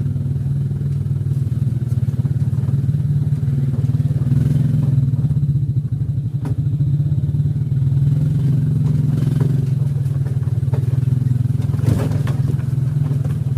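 A motor vehicle's engine running steadily as it drives, with a couple of brief knocks and rattles about halfway through and near the end.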